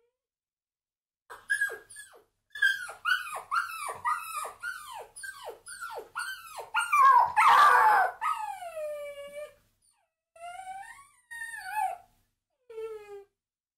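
A dog giving a quick run of high-pitched yelping barks, each dropping in pitch, about two a second. A louder, harsher bark comes about seven seconds in, followed by drawn-out whines that rise and fall.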